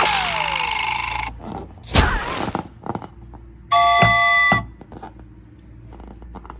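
A string of cartoon-style sound effects: a hissing burst with a falling whistle, a thump about two seconds in, then a short steady bell-like chime a little after the middle.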